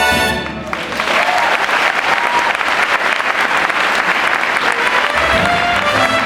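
A held brass-band chord breaks off just under a second in, and an audience applauds; the band starts up again near the end, low notes first.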